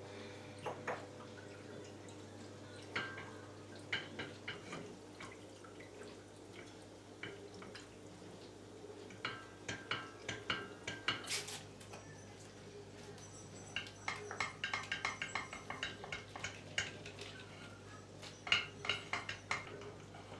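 Dishes and utensils clinking and knocking in several clusters, some strikes leaving a short ringing tone, with a brief hiss about halfway through.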